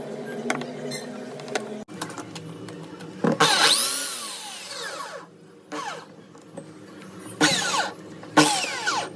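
Bosch electric drill triggered in short bursts: a loud burst about three seconds in winds down over a couple of seconds, then two shorter bursts near the end, each falling in pitch as the motor coasts down. It is being test-run after its forward/reverse switch repair.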